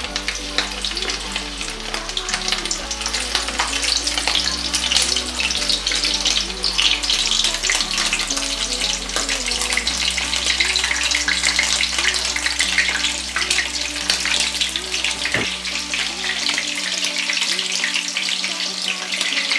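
Shrimp spring rolls frying in hot oil in a frying pan: a dense, steady crackling sizzle as more rolls are laid into the oil.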